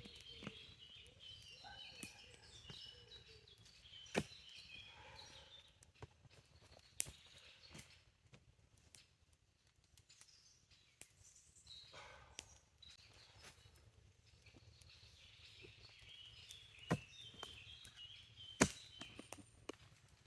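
Quiet forest ambience: small birds chirping in short clusters near the start and again near the end, with a few isolated sharp knocks or clicks, the loudest two about three-quarters of the way through.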